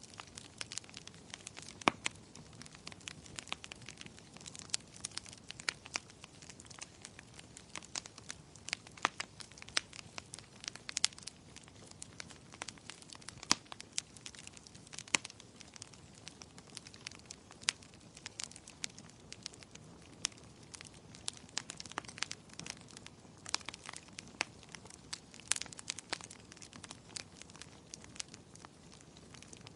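Wood fire crackling steadily, with irregular sharp pops and snaps over a low hiss of burning.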